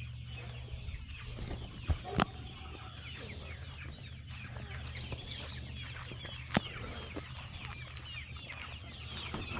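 Flock of young chickens clucking and peeping, many short calls overlapping, with a few sharp knocks: one about two seconds in, another right after it, and one more past the middle.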